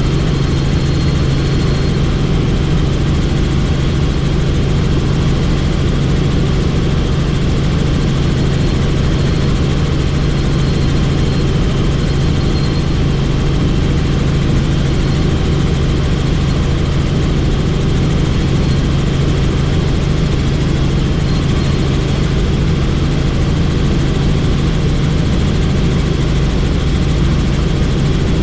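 Helicopter in flight: the rotor and engine keep up a steady, loud drone with a constant low hum.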